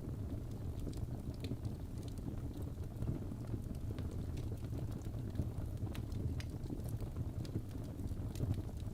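Wood fire burning in a fireplace: a steady low rumble of flames with scattered sharp crackles and pops of burning logs, several close together about four to six seconds in.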